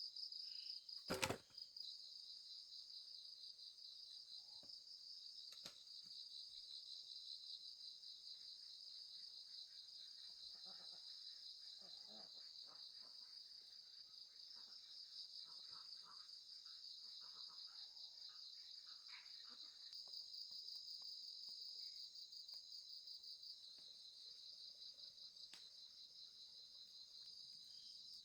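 Insects, crickets by their sound, trilling steadily and faintly in a continuous high-pitched, finely pulsing drone. A single sharp click sounds about a second in.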